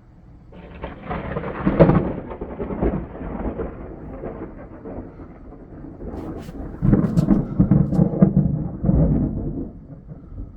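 A thunder clap rolling in about half a second in and peaking near two seconds, then rumbling on. It gives way to a second, louder round of crackling rumbles from about seven to nine seconds before dying away.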